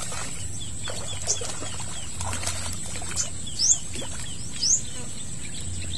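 A bird giving a short rising chirp every second or two over a steady high-pitched whine, with faint splashing from a darted fish thrashing at the water's surface.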